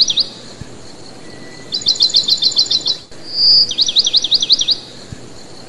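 A small bird singing: rapid series of high chirps, about eight a second, in bouts of around a second, with one short held whistle between two of the bouts.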